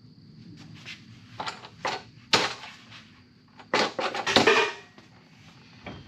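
Irregular sharp clanks and knocks of hand tools and metal parts being handled during an oil change. The loudest clank comes about two and a half seconds in, followed by a quick run of rattling knocks around four seconds in.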